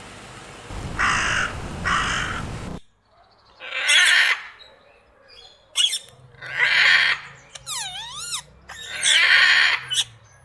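Crow cawing twice over background noise; then, after a cut, loud harsh bird calls repeat about every two and a half seconds, with a short wavering whistle among them.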